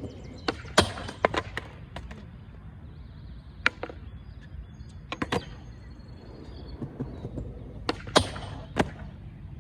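Skateboard clacks and knocks during a frontside 50-50 grind attempt: a string of sharp impacts as the board snaps, hits and lands, over a steady low rumble.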